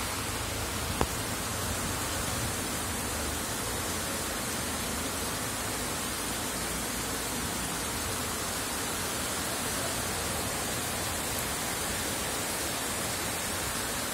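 Heavy monsoon rain falling, a steady even hiss, with one sharp click about a second in.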